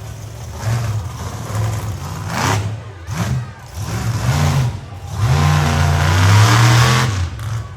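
Monster truck's supercharged big-block V8 revving hard in repeated bursts, its pitch rising and falling, with the longest and loudest burst near the end.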